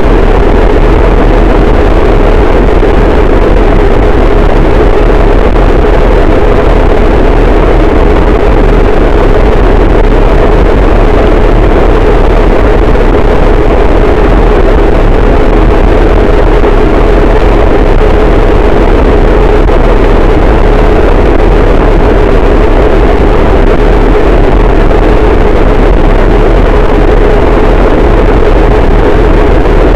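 Harsh noise wall: a dense, unchanging wall of distorted noise played at full loudness, heavy in the low end with a steady droning band in the lower middle.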